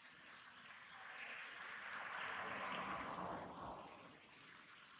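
Steady rain falling, a continuous hiss that swells louder for a couple of seconds in the middle and then eases back.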